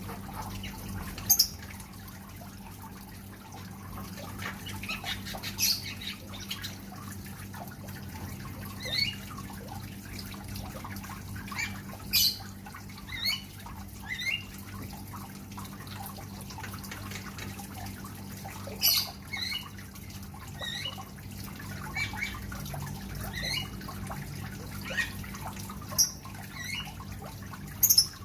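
Songbirds in an aviary calling with short, scattered chirps and squawks, some rising in pitch, a few louder than the rest, over a steady background hiss.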